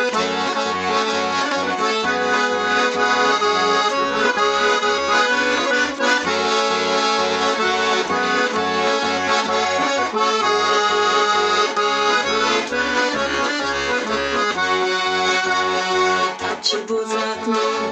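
Russian garmon (button accordion) playing the instrumental introduction to a song: a melody over sustained chords, with a regular pulsing bass underneath.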